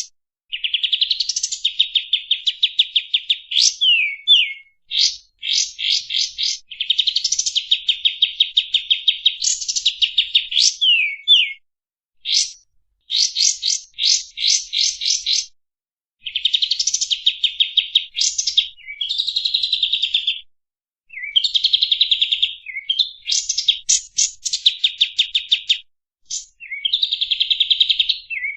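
Kapas tembak songbird singing a masteran song: fast rattling trills of rapid chirping notes, in phrases of a few seconds each with short pauses between, some phrases ending in quick up-and-down whistled notes.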